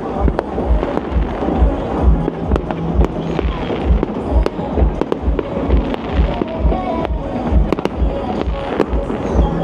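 Fireworks banging and crackling over loud music with a steady bass beat.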